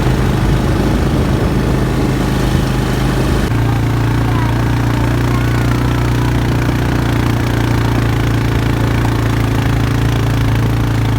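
Quad bike (ATV) engine running at a steady speed, a constant loud drone. The tone changes slightly about three and a half seconds in.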